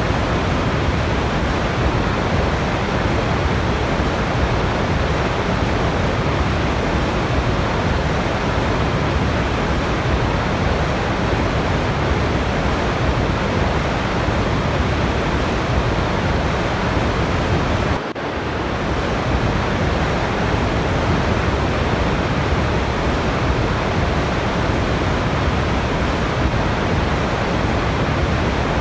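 Waterfall: steady, dense rushing of falling water, with one brief drop in level about eighteen seconds in.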